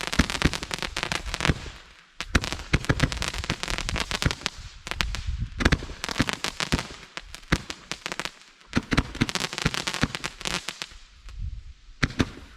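Consumer fireworks going off: dense crackling in bursts of about two seconds, with short pauses between them, loud.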